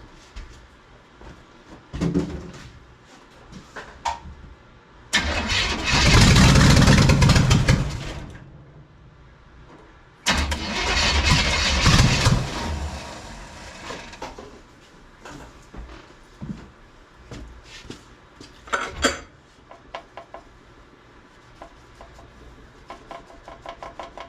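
Small-block V8 cranked on its starter in two tries of about three seconds each, a few seconds apart, with smaller knocks and clicks between them. The engine is being turned over to prime its engine-driven fuel pump, which has not yet pushed fuel into the carburetor bowls.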